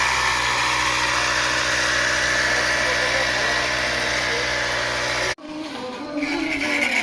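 A motor or engine running steadily with a constant hum, cutting off abruptly about five seconds in.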